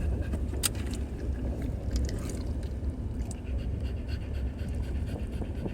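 Dog panting steadily, over a constant low rumble.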